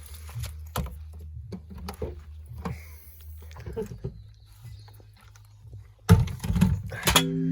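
Knocks and bumps of gear being loaded into a car, with a loud thud about six seconds in, like a car door or tailgate shutting. A singing bowl starts ringing near the end.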